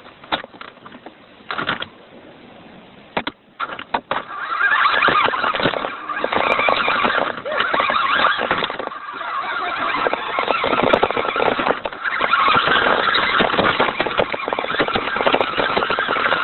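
Radio-controlled toy Hummer's motor and drivetrain whirring loudly as it drives. It starts about four seconds in after a few short clicks, and the whir rises and dips as it runs.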